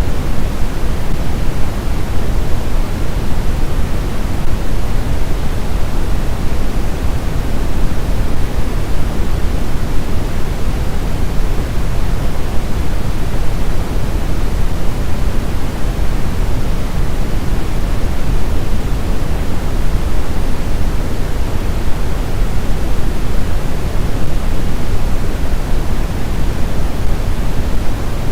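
Steady synthetic pink noise: an even, unbroken hiss, heaviest in the low end and softer in the highs, made for helping a baby sleep.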